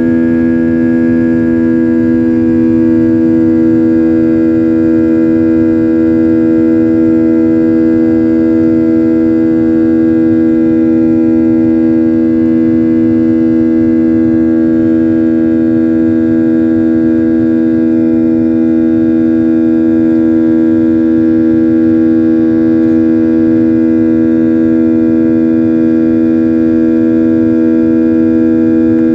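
Airliner cabin noise after takeoff: the jet engines' loud, steady drone with strong held tones over a low rumble.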